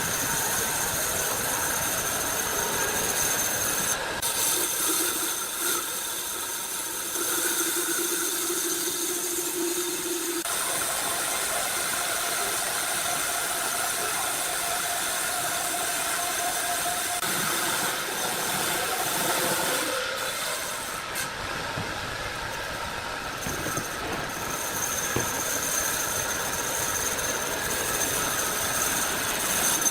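Sawmill saw running through a log: a steady hissing noise with whining tones that change pitch a few times as the cut goes on.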